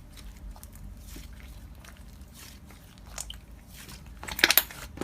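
Slime being played with: faint scattered crackles and clicks, with a louder burst of crackly pops about four seconds in.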